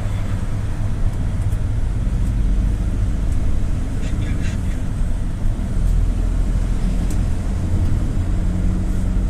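GAZelle City minibus on the move, heard from on board: a steady low engine and road drone, with a few faint clicks and rattles.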